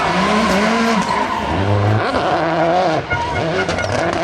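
Rally car engine revving hard, its pitch rising and falling several times.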